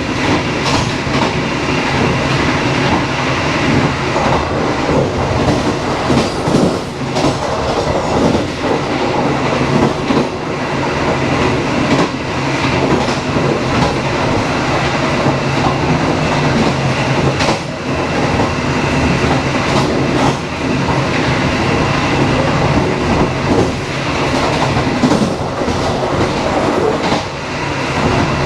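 Dharmawangsa passenger train running along the track: a steady rumble and hum with irregular clicks and knocks from the wheels passing over rail joints.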